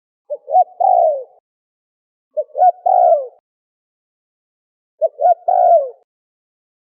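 Spotted dove cooing: three phrases about two seconds apart, each two short notes and then a longer coo that falls in pitch.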